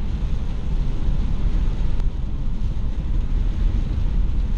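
Car driving at highway speed on a wet road in heavy hurricane rain and gusty wind: a steady low rumble of road and wind noise.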